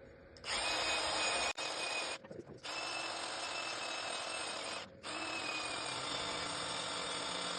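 Power drill running in long bursts, stripping old spray paint off pit bike parts. It starts about half a second in, with two brief pauses, each time starting again.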